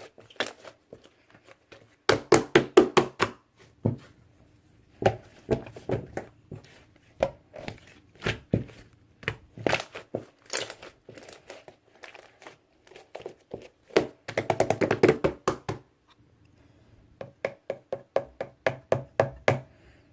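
Slime being squeezed and pressed by hand, heard as bursts of rapid clicking pops with short pauses between them.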